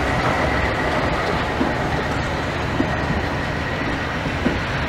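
Vintage railway passenger coaches rolling past close by: a steady rumble of wheels on rail, with a few sharp clacks as the wheels cross rail joints and a faint high wheel squeal.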